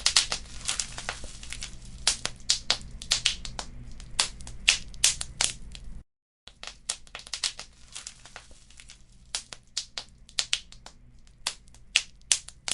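Wood fire in a fireplace crackling, with frequent sharp pops and snaps over a low steady rumble. The sound drops out completely for about half a second near the middle.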